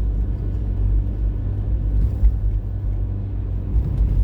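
Car driving on a snowy road, heard from inside the cabin: a steady low rumble of engine and tyre noise.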